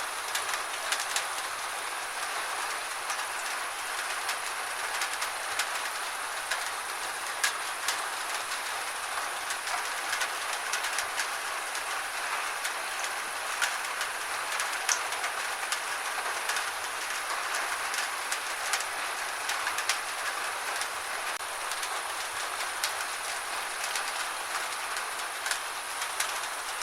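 Steady gentle rain, with many irregular sharp taps of drops striking a nearby surface.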